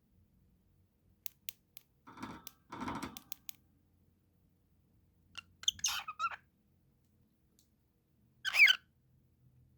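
Cockatiel giving short squawking calls, one about six seconds in and a louder one near the end. Before the calls there are a few light clicks and two short noises about two seconds in.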